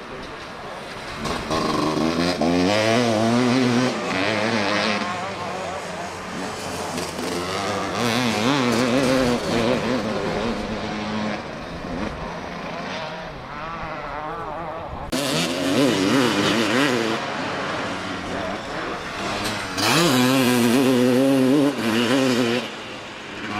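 Motocross bike engines revving hard as bikes race past on the track, the pitch wavering up and down with the throttle; the engines swell several times as bikes come by one after another.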